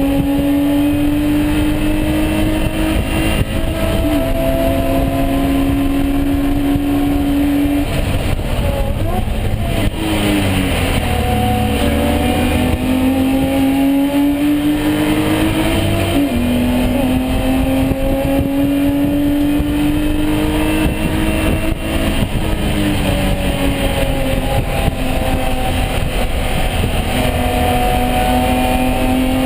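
BMW E36 M3 race car's straight-six engine running hard under acceleration. Its pitch climbs steadily and drops at each upshift. About eight to eleven seconds in it falls away in short up-and-down blips as the car slows, then climbs through the gears again.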